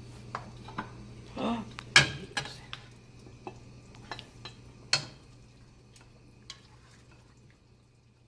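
Metal utensil clinking and knocking against a cooking pot while stirring, a string of separate clinks with the loudest about two seconds in and another near five seconds. A steady low hum runs underneath and stops near the end.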